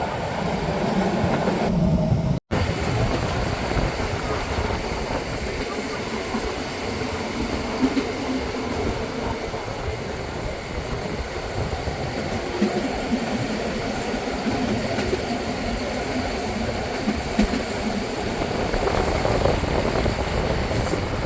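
Bernina line train running along the track, a steady rolling noise with a few sharp clicks from the wheels and rails. The sound cuts out for an instant about two and a half seconds in.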